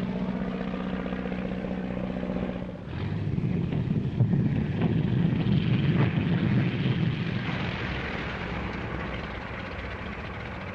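Ercoupe light airplane's propeller engine running with a steady tone, which about three seconds in gives way to a rough, rumbling noise that swells and then slowly fades away.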